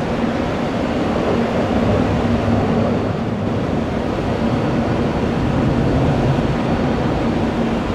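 Steady jet engine noise from airliners at the airport: an even rumble with a constant hum and a faint high whine.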